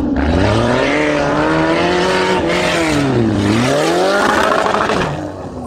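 A motor vehicle's engine revving hard, its pitch dropping about three seconds in and then climbing again.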